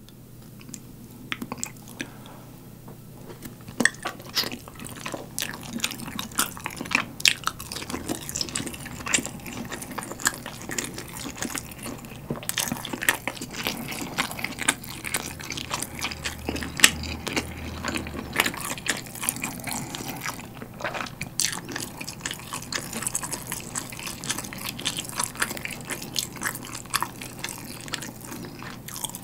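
Close-miked eating: biting and chewing a sauce-coated roasted chicken drumstick and plain rice, with many small, irregular wet mouth clicks.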